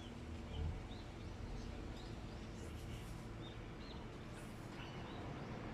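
Small birds chirping: short high calls scattered through, over a low steady background rumble.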